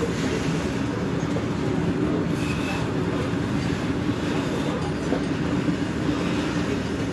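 Freight train's open wagons rolling past, a steady rumble of steel wheels on the rails.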